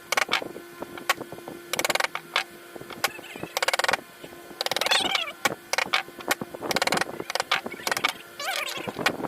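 Hand tools working hardwood: irregular sharp knocks and several short bursts of rapid scraping strokes, over a steady faint hum.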